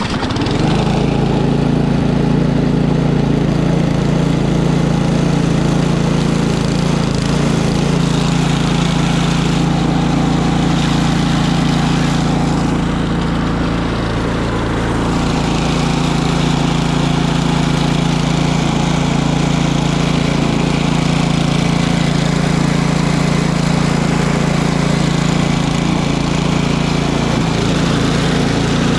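Small single-cylinder engine of an Ariens Deluxe 28 snowblower, running steadily just after a cold start, with a brief dip in speed about halfway through.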